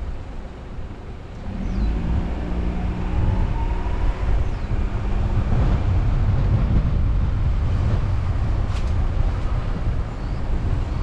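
Car driving with steady road and wind noise, picked up by a GoPro mounted on the car. The engine note rises for a couple of seconds as the car accelerates, beginning about a second and a half in.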